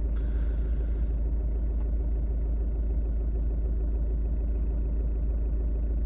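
Fiat 500X's engine idling, a steady low rumble heard inside the cabin.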